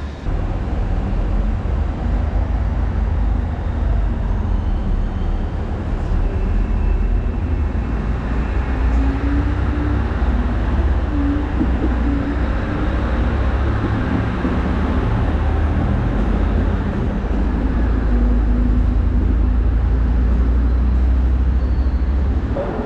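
Train running, a steady low rumble that grows heavier in the second half, with faint wavering tones above it.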